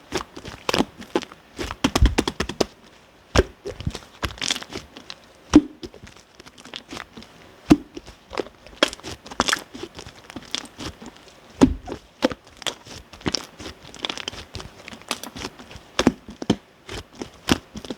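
Sky-blue clear slime mixed with shaving foam being pressed and stretched by hand, giving off irregular sticky clicks and little pops.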